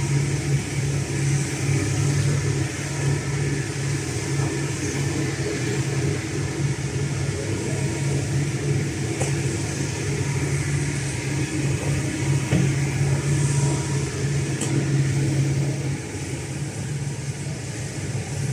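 Hino J05E-TG four-cylinder turbodiesel of a Kobelco SK210LC excavator running at a steady speed, its hum dropping a little in level about sixteen seconds in.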